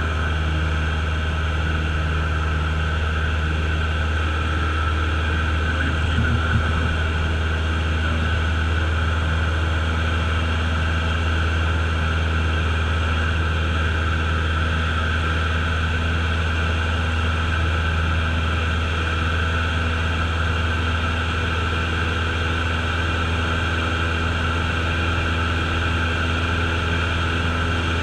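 Single-engine Cessna's piston engine and propeller heard from inside the cockpit: a steady, unchanging drone.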